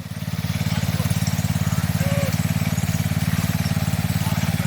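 Small-engine lawn tractor running steadily with a rapid, even low pulse, getting louder over the first half second and then holding.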